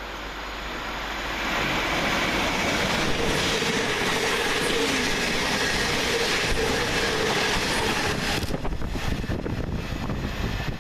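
Class 700 electric multiple unit running along the track: a steady rush of wheel and rail noise with a faint hum. It builds over the first two seconds and turns rougher and a little quieter near the end.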